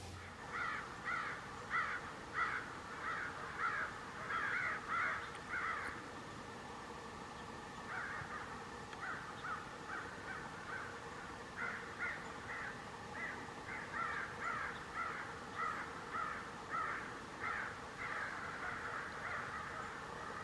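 Crows cawing in repeated series, about two harsh caws a second, with a short pause around six seconds in before they start again.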